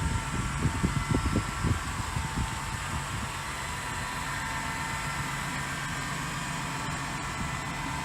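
Steady mechanical hum, with several low thumps in the first two seconds.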